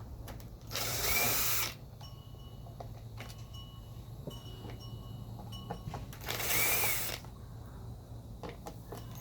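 Power drill spinning in two short bursts of about a second each, backing out fasteners on a generator being torn down. Faint clicks of tool handling come between the bursts.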